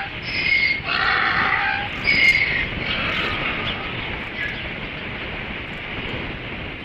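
Osprey giving a few short whistled calls in the first three seconds, over steady wind buffeting the microphone.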